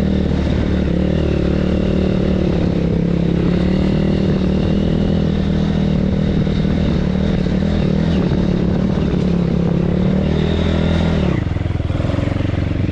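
BSE PH150 pit bike's 150 cc engine running at steady revs while riding; about eleven seconds in the revs drop.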